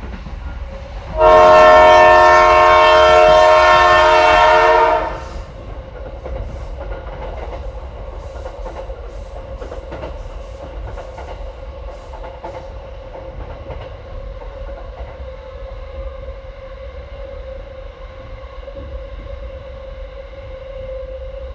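A Sri Lankan passenger train's horn sounds one long chord of several tones for about four seconds, then the train runs on with a steady hum and a run of wheel clicks over the rail joints.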